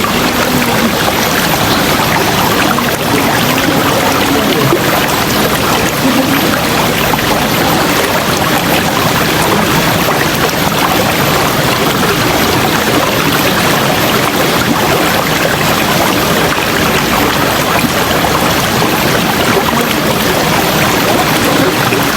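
Steady, dense rush of a flowing river.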